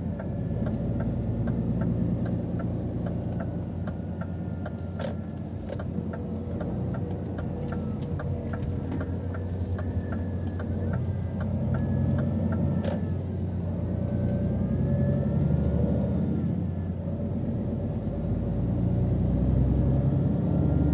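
Scania R500 truck's 13-litre straight-six diesel running steadily on the road. A regular light ticking, about two a second, runs for the first two-thirds and stops about thirteen seconds in.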